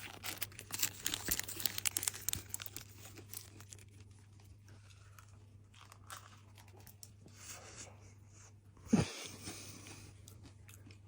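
Crisp pastry crunching as it is bitten and chewed, busiest in the first three seconds and then quieter chewing, with a short vocal sound about nine seconds in. A faint low hum runs underneath.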